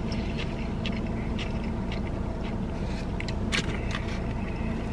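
Close-up eating sounds: chewing with small scattered clicks and scrapes, over the steady rush of a car's air conditioning blowing.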